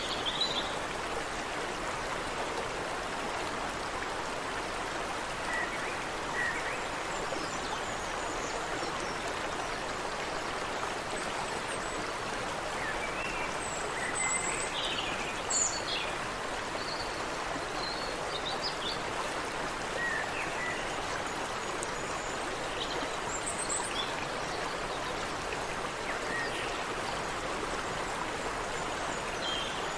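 Creek water running steadily, with scattered short bird chirps and calls over it.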